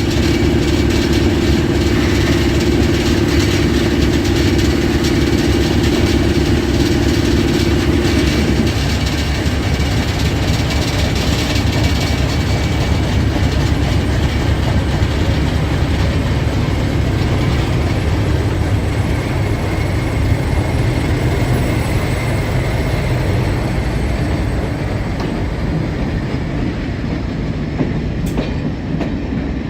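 Heritage diesel locomotive hauling a train past, its engine running steadily under power over the rumble of the wheels on the rails. The engine note drops away about eight seconds in, leaving the rolling rumble of the train, which slowly fades.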